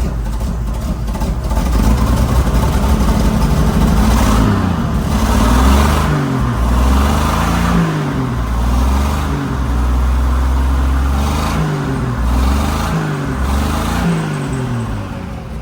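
Toyota Land Cruiser engine, freshly cold-started, being revved several times, its pitch climbing and falling back with each blip of the throttle before settling toward idle near the end.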